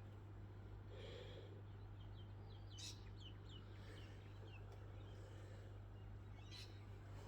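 GEC 1200 mm ceiling fan running quietly on low speed, with a faint steady low motor hum. A few short, high chirps come about three to four seconds in.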